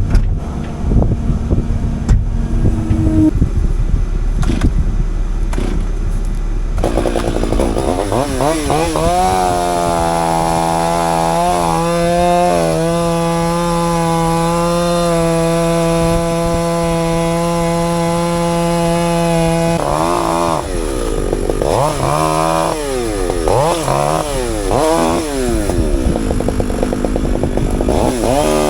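A low engine rumble with some knocks. About seven seconds in, a chainsaw revs up and runs at full throttle, steady for about ten seconds. It is then revved up and down several times, as in cutting.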